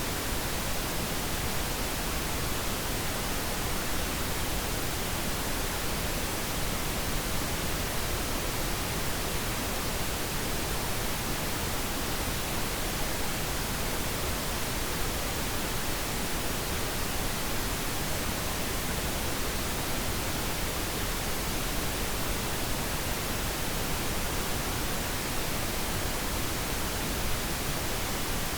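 Steady pink noise: an even, unbroken hiss that does not change over time.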